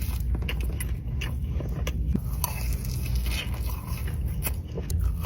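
A person biting and chewing food close to the microphone, with scattered crisp clicks and crackles.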